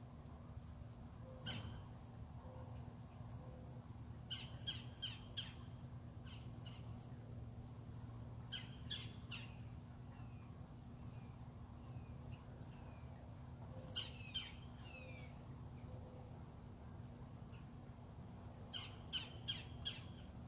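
Birds calling: harsh squawking notes in quick runs of three or four, repeated every few seconds, with fainter short down-slurred chirps in between. A steady low hum runs underneath.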